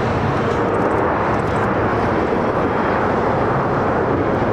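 Jet airliner landing, its engines making a loud, steady noise.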